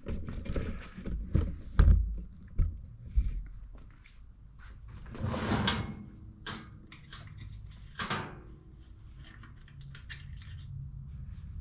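Scattered clicks, knocks and scrapes of hand tools and metal parts being handled while working on a push mower, with a louder scrape about five seconds in and another about eight seconds in.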